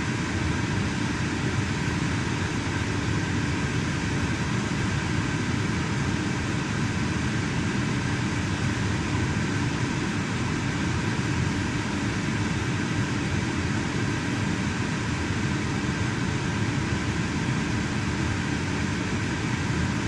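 Steady running noise of a car with its air-conditioning blower on, an even rush with a faint constant hum and no changes.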